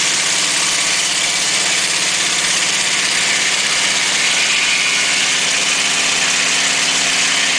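Portable dimensional sawmill running steadily, driven by its Volkswagen engine: a loud, even engine note under a dense mechanical hiss.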